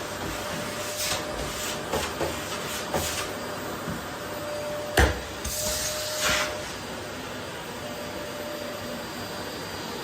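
Vacuum cleaner running steadily with a faint hum in its noise. There are several clicks and rattles in the first few seconds, a sharp knock about halfway through, and a short rush of high hiss just after it.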